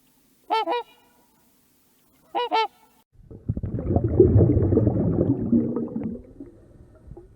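A goose honking twice, each a short double note, a couple of seconds apart. From about three seconds in, a louder, rough, noisy low sound with no clear pitch takes over, then fades away.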